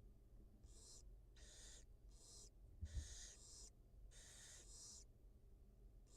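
Barn owls giving a run of short, raspy hissing calls, about seven in quick succession. A single low thump comes about three seconds in.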